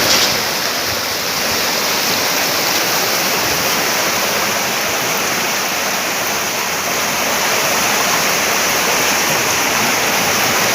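Floodwater rushing along a flooded street: a loud, steady rush of flowing water.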